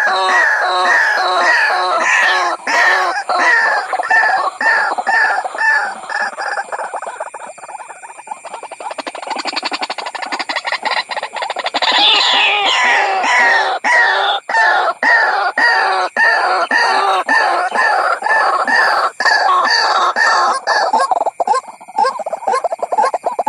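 White-breasted waterhen calling in a rapid run of repeated notes, about three a second, from a lure recording made to draw waterhens in. The calls thin out and fade about 8 seconds in, then pick up again from about 12 seconds.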